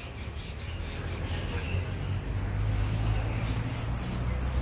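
Sandpaper rubbing in repeated strokes on the Sakai TG40 road roller's bodywork, sanding it down to prepare for primer, over a steady low hum.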